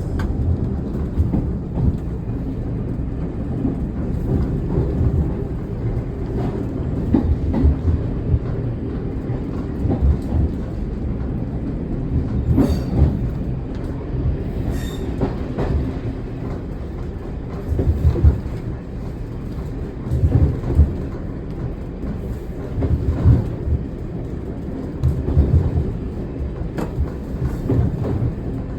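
Single-car diesel railcar running downhill with power off, heard from the cab: a steady low rumble of engine and running gear, with the clickety-clack of wheels over rail joints. Irregular louder knocks come through more often in the second half.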